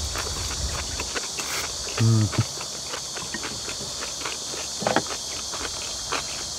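Close-miked eating sounds: chewing with a run of small wet mouth clicks and smacks. About two seconds in comes a short low hummed "mm" from one of the eaters, the loudest sound.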